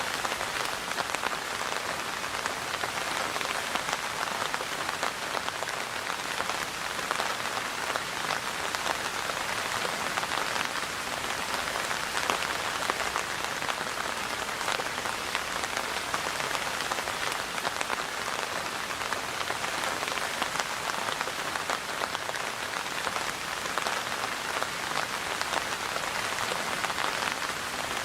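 Steady rainfall, a dense even patter of drops striking a surface.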